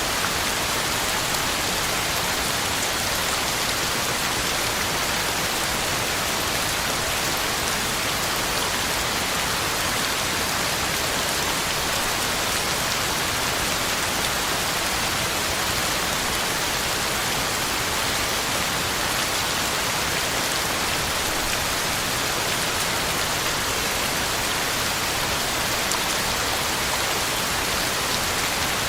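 Heavy rain falling steadily, a dense even hiss of drops on the ground and leaves with no let-up or thunder.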